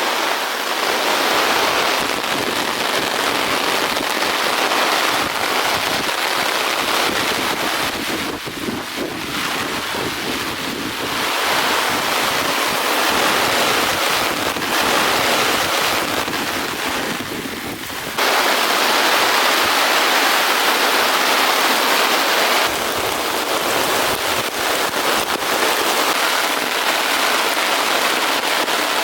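Heavy rain pouring down in strong wind, a dense steady hiss with wind buffeting the microphone. The sound changes abruptly in level and tone a few times.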